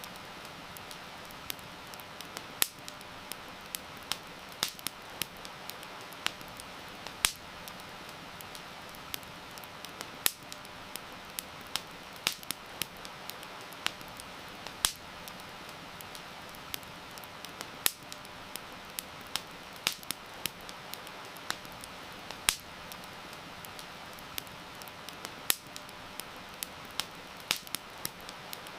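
Wood campfire crackling, with sharp irregular pops of varying loudness, often several a second, over a steady hiss of rain.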